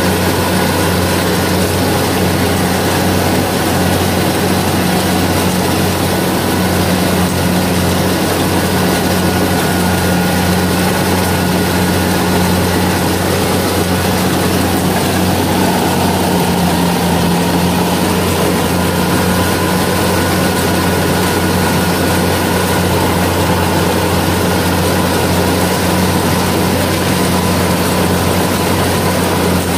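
Kubota rice combine harvester's diesel engine and threshing machinery running steadily under load, a constant low drone with a higher whine that shifts slightly about halfway through.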